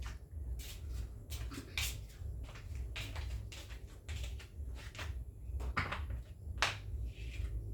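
Irregular light knocks and clicks of household items being handled and set down, over a steady low hum.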